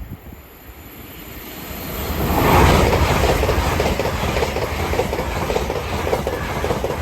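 LNER Azuma high-speed passenger train passing at speed. The rush of noise builds over the first couple of seconds, then holds with a rapid, regular clatter of wheels over the rails.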